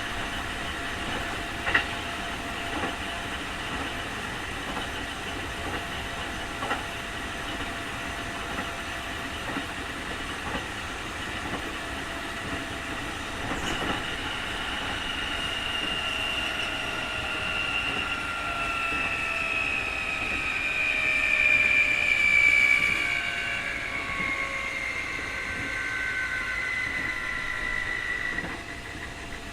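Keikyu 2000 series train running, heard from inside the car: a steady running rumble with occasional rail-joint clicks. From about halfway a high whine from the Mitsubishi field-chopper traction motors sets in, the strong 'jet sound' this car is known for. The whine slowly falls in pitch, is loudest about three quarters of the way through, and fades near the end.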